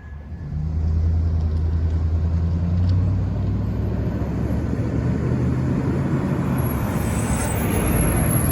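Diesel engine of a garbage truck running close by. It comes in loud and low about half a second in and holds steady, with more road and tyre noise building toward the end.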